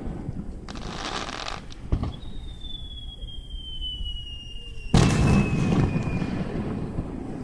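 Fireworks going off: a crackling burst about a second in, a sharp bang near two seconds, and a long whistle falling slowly in pitch. About five seconds in comes the loudest, a big boom that rumbles away for a couple of seconds.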